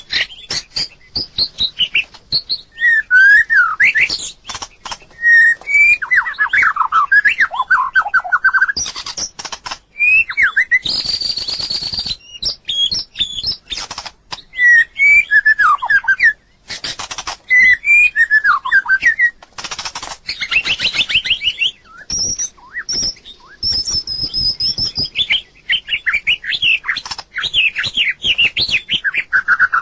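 White-rumped shama singing phrase after phrase of varied, gliding whistled notes and fast trills. Many sharp clicks are mixed in between the phrases.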